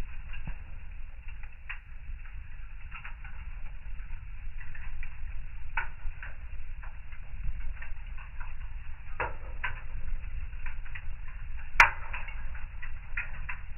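Wood fire crackling in a fireplace: irregular small pops and snaps over a low steady rumble, with one sharp, louder pop near the end.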